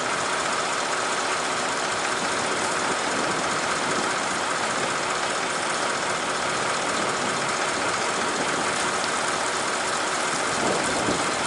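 Old International fire engine running steadily with its fire pump engaged, pumping water.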